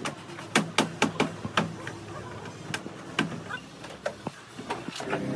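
A string of sharp knocks and clicks at an irregular pace, several in quick succession about a second in and a few more spaced out after that, over a faint steady low hum.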